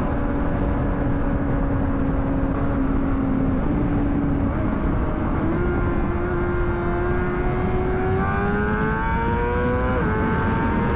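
A 2009 Honda CBR600RR's inline-four engine runs at a steady pitch for several seconds. Its note then climbs gradually as the bike accelerates, dipping slightly near the end. Steady wind rumble runs underneath.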